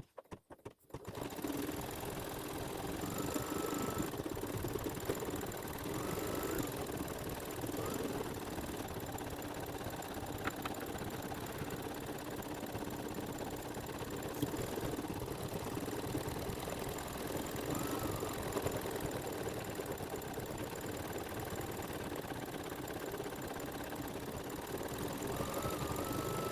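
Embroidery machine stitching out a satin-stitch edge, running steadily after coming on about a second in, with a few clicks just before it starts.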